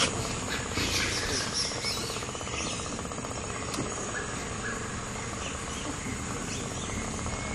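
Rainforest insects droning steadily at a high pitch, with a few short bird calls.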